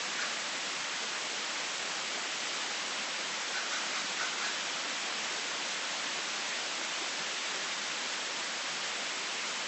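Heavy rain falling in a steady, even hiss, without let-up.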